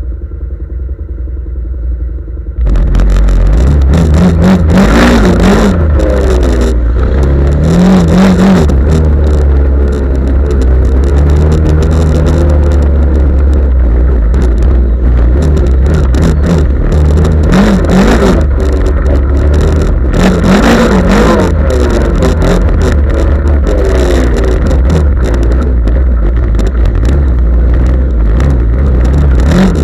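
Off-road vehicle engine revving hard and repeatedly, its pitch rising and falling again and again over a heavy low rumble. It starts abruptly, very loud, about two and a half seconds in, after a quieter steady running.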